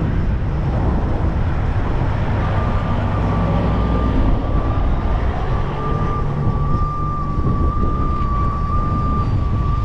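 Strong wind rumbling on the microphone over running heavy-truck machinery, with a steady high whine starting about two and a half seconds in.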